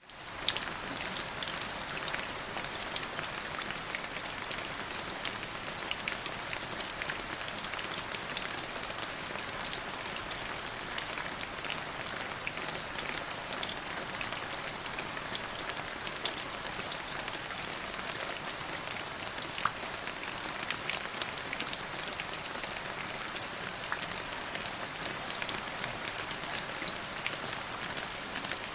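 Steady rain falling on a hard surface: a dense hiss full of separate drop ticks, fading in quickly at the start, with one sharper drop about three seconds in.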